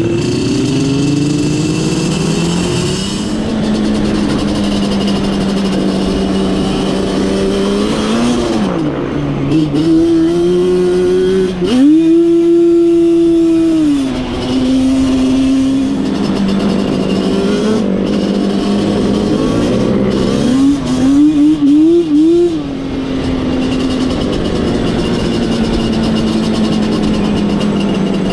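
Off-road vehicle engine running at a steady speed, revving up hard about twelve seconds in and holding high revs for about two seconds, then a few quick rev blips a little past twenty seconds.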